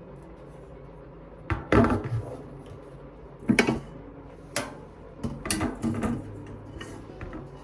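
Kitchen handling sounds: a few separate knocks and clunks of things being moved and set down. The loudest comes about a second and a half in, with a cluster of quicker knocks near the end.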